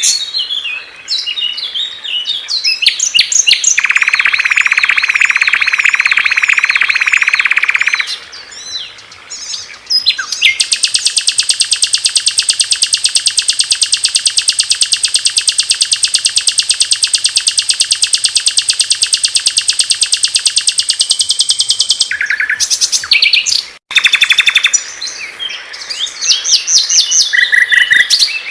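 Small songbirds singing in a medley of high, chirping song phrases, with a long, fast, even trill lasting about eleven seconds in the middle and a brief sudden break near the end.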